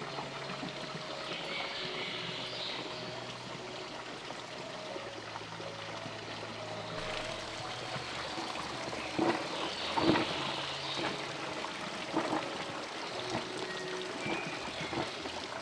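Steady running water, with soft sustained music notes beneath it. A few sharp knocks come about two-thirds of the way through.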